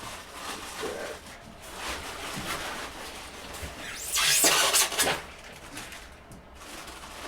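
Packing material and parts being handled and rustled, with one loud rush of rustling about four seconds in that lasts about a second.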